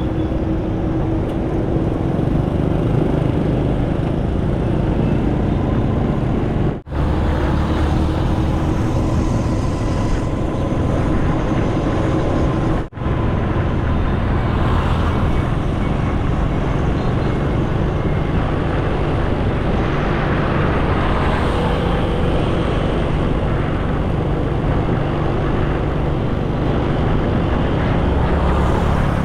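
Motorcycle riding on the open road, heard from the rider's camera: steady rush of wind over the microphone with engine and road traffic noise under it. The sound cuts out briefly twice.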